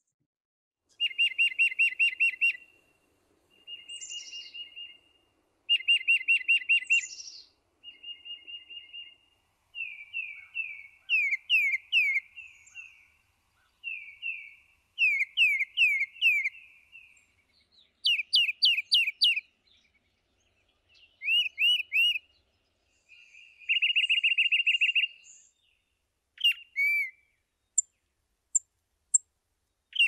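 Tufted titmouse singing its "peter-peter-peter" song: about ten runs of quick repeated two-part whistled notes, each run one to three seconds long with short pauses between. A few short, very high single notes follow near the end.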